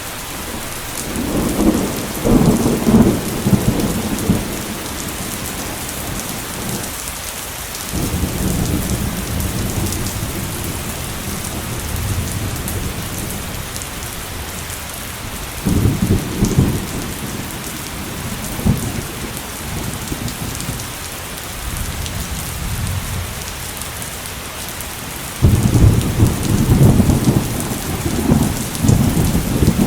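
Heavy rain pouring steadily, with rolls of thunder rumbling in several times: a swell about a second in, shorter rolls around 8 and 16 seconds in, and a long loud roll starting near the end.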